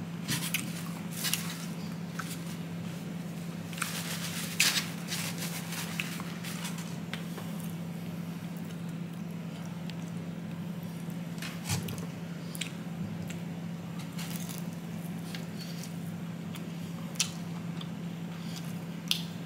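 Close-up mouth sounds of a person biting and chewing fried chicken fingers: scattered wet clicks and crackles, the loudest about four and a half seconds in, over a steady low hum.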